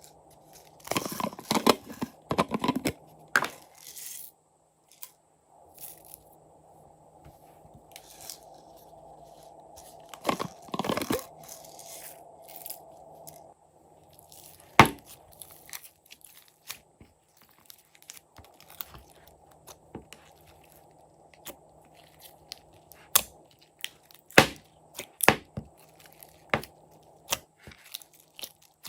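Slime being mixed and squished: sticky, crackling squelches in two dense spells near the start and about ten seconds in, then scattered sharp pops and clicks.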